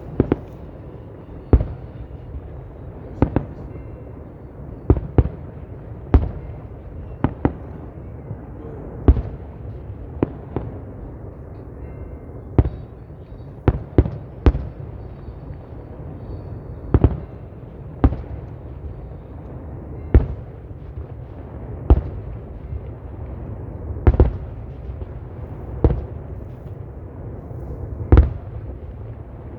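Fireworks display: shells bursting in the air with sharp bangs every second or two, some in quick pairs, over a steady low rumble.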